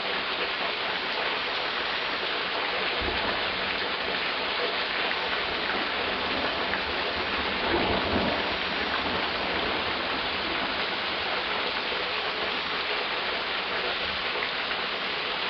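Heavy rain pouring steadily onto a street in a thunderstorm, an even hiss throughout. A low rumble comes in about three seconds in and swells to its loudest about halfway through.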